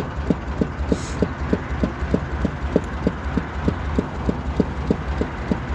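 Narrowboat's diesel engine running, an even knocking beat about five times a second over a steady low hum.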